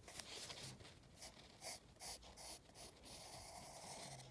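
Faint, irregular scratchy strokes of a drawing tool on paper as a cartoon is sketched.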